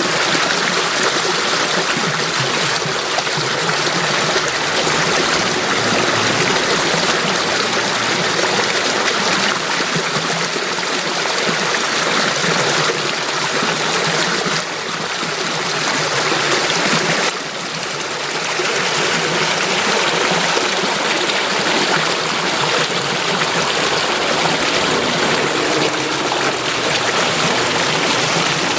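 Running stream water, a steady rush with trickling, dipping briefly in level twice midway.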